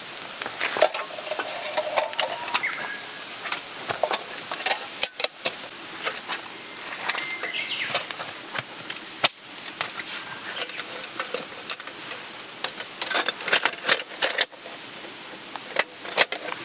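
Campfire cooking: a steady sizzling hiss with frequent sharp clicks and clinks, and a couple of brief scraping squeaks about two seconds in and again near eight seconds.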